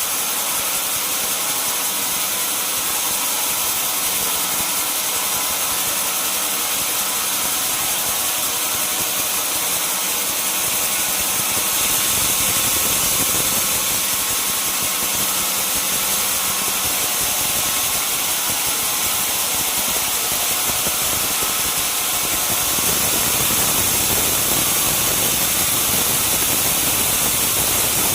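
Sawmill machinery running steadily, a continuous high hiss with a steady machine hum underneath, getting slightly louder a couple of times.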